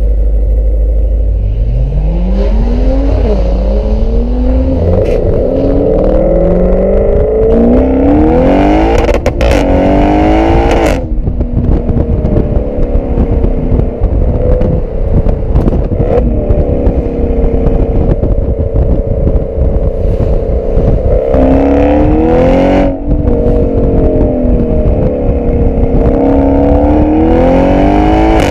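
Twin-turbo V8 of a tuned Audi RS6 C7 through an Akrapovic exhaust, heard at the tail of the car. It accelerates hard through several upshifts with the revs climbing each time, and gives sharp cracks on the shifts around ten seconds in. It then cruises at a fairly steady pitch before pulling hard through more gear changes near the end.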